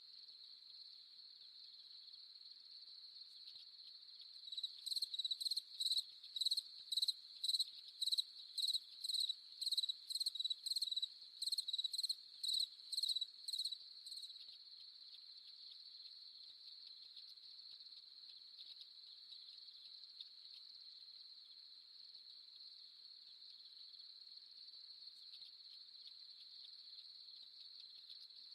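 Crickets trilling steadily in a high, continuous chorus. From about five seconds in until about fourteen seconds in, one louder cricket chirps about twice a second over it.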